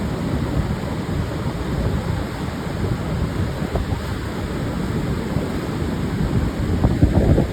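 Pacific surf washing steadily onto a wide sandy beach, mixed with wind, with a wave surging louder near the end.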